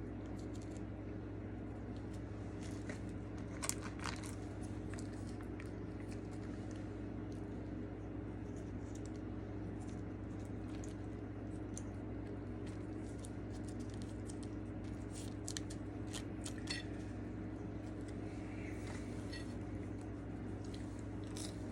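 Eating fast food: scattered faint clicks and rustles of food and packaging being handled, over a steady low hum.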